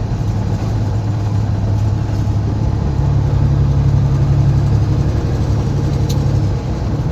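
Semi truck's diesel engine heard from inside the cab as the truck pulls away. The engine note steps up and grows louder about three seconds in, then eases off near the end, with a single sharp click shortly before it eases.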